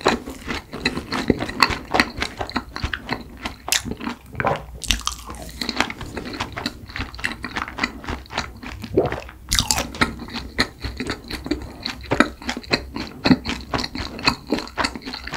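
Close-miked chewing of a mouthful of soft cream-covered rice cake: a continuous run of small mouth clicks and smacks.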